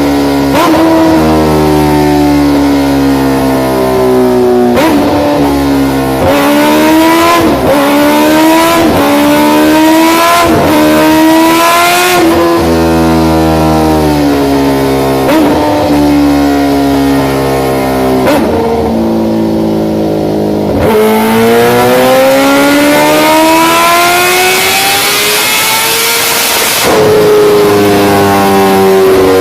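Large-displacement motorcycle engine and exhaust running loud and revving, its pitch rising and falling again and again with a few abrupt breaks, then climbing in one long rise near the end as it accelerates.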